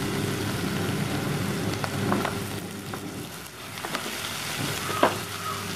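Sliced onions and whole garlic cloves sizzling steadily in hot oil in a clay pot, with a few light knocks of a wooden spatula against the pot as they are stirred.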